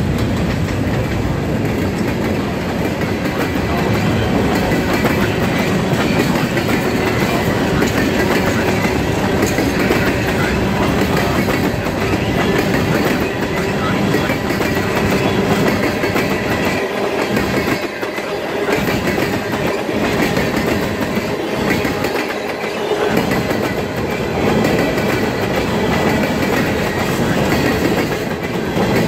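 Freight train of covered hoppers and tank cars rolling past close by: a loud, steady noise of steel wheels running on the rails.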